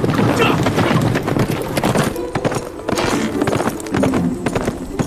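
Several horses galloping together, a rapid clatter of hoofbeats on the ground.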